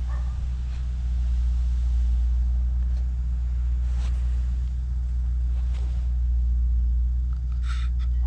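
Car engine idling steadily with a low, even rumble just after a cold start in freezing weather. A brief higher-pitched noise comes near the end.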